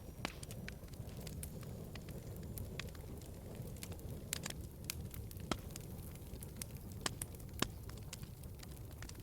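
Wood fire burning in a fireplace, a low steady rumble with irregular sharp crackles and pops, a few louder snaps in the middle.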